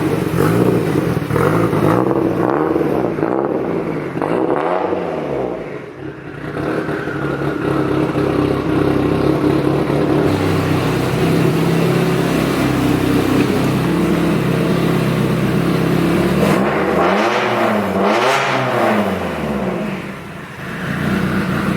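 Mitsubishi Lancer Evolution IX's big-turbo 4G63 four-cylinder engine running, freshly brought back to life on a standalone ECU that has not yet been tuned. The engine note holds steady, dipping briefly twice.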